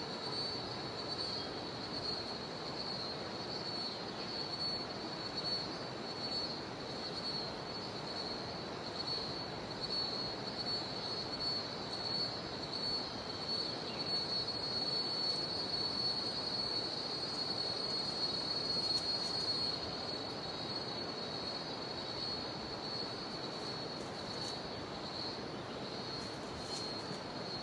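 River water rushing steadily, with cicadas singing in one continuous high-pitched whine over it.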